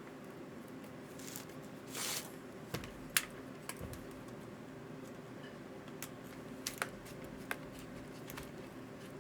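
Small clicks and taps from hands handling RC car parts and tools at a workbench, with a short scrape about two seconds in and a sharper click about a second later, over a steady low hum.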